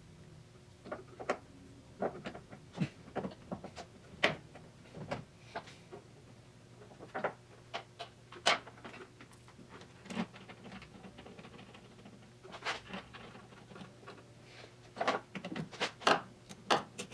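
Scattered light clicks and knocks of a steering column holding bracket and its parts being handled and fitted, with a quicker run of clicks near the end.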